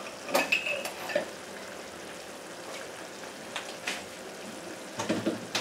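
Chicken pieces sizzling as they fry in a nonstick pan, a steady crackling hiss. Over it come a few sharp clicks or knocks: several about half a second in, two around four seconds, and a cluster near the end.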